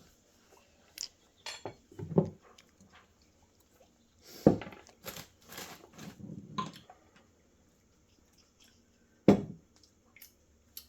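Scattered clicks, taps and a few short knocks from handling hot sauce bottles and potato chips while sauce is put on the chips.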